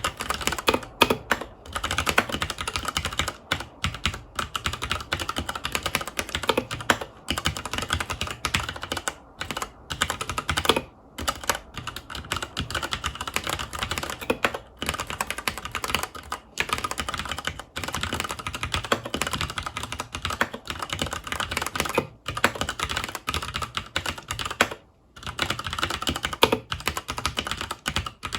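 Continuous fast typing on a FILCO Majestouch 2 HAKUA tenkeyless mechanical keyboard with Cherry MX Brown switches, a dense run of key clicks and clacks broken by a few brief pauses.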